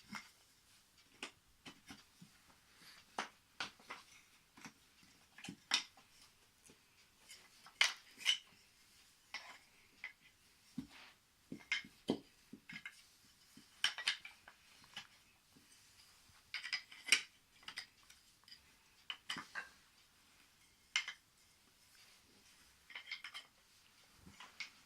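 Wooden IKEA toy train track pieces being handled and fitted together: scattered light clicks and knocks at irregular intervals.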